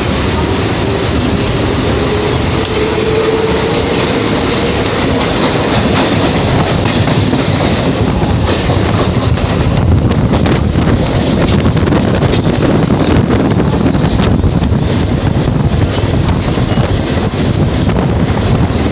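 Mumbai suburban local electric train running, heard from on board: loud steady rumble and rattle of the wheels on the track, with a whine rising in pitch over the first few seconds as the train gathers speed.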